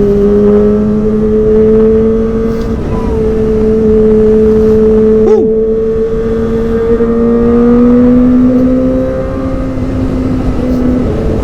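Kawasaki ZX-25R's 250 cc inline-four running at high revs through a Prospeed Shark Black aftermarket exhaust while riding, a steady high engine note whose pitch climbs slowly. Wind rushes over the microphone underneath.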